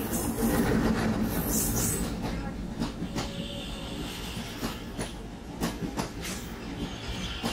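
Diesel-hauled passenger train passing close by. The locomotive's engine rumble eases off over the first couple of seconds, leaving the coaches rolling past with a quick, irregular clatter of wheels over the rail joints.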